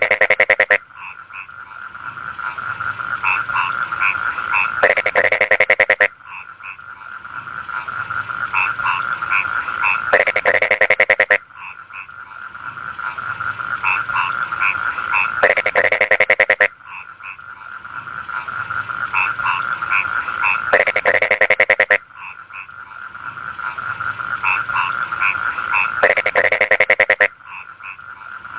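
Chorus of rice-field frogs: a continuous trilling din, broken about every five seconds by a loud, rapid, pulsing croak lasting about a second.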